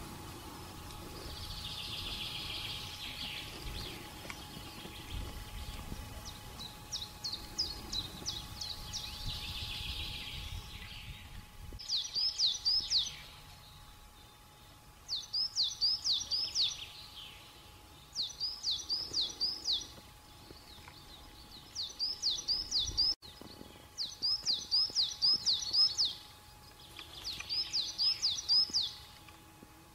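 Bird song: short phrases of five or six quick, identical, high chirped notes, repeated every two to three seconds in the second half.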